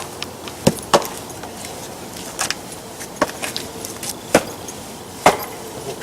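Firewood making about six sharp knocks and cracks at irregular intervals.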